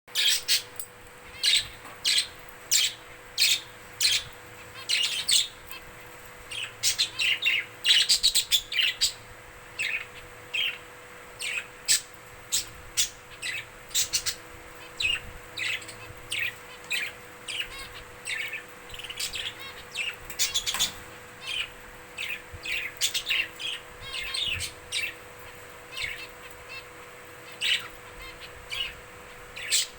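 Budgerigars chirping in many short, quick calls, with a dense flurry of chirps about eight seconds in.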